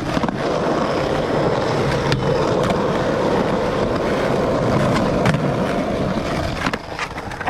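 Skateboard wheels rolling steadily over the park surface, with a few sharp clacks along the way. The rolling eases off near the end.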